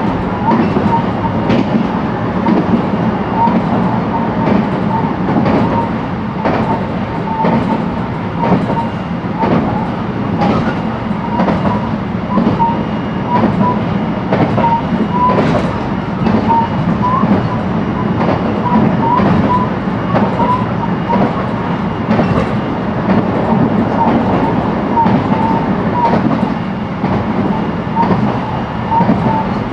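Interior running noise of a JR West 223-series electric multiple unit motor car travelling steadily between stations. A constant rumble from wheels and track, with irregular clicks as the wheels pass over rail joints.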